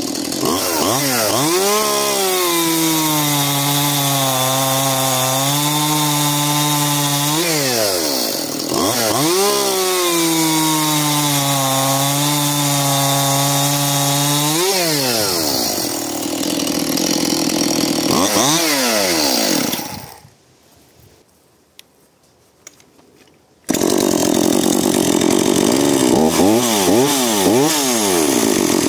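A two-stroke chainsaw cutting through a log twice. The engine pitch drops and holds under load during each cut, then revs up between cuts. About 20 s in, the sound cuts off suddenly to near silence for about three seconds, then a chainsaw is running and cutting again.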